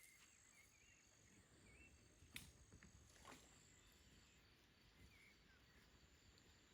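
Near silence: faint outdoor ambience with a few faint bird chirps and one faint click a little over two seconds in.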